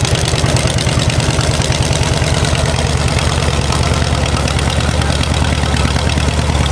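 Fuel-injected car engine idling steadily just after a cold start, having sat all winter.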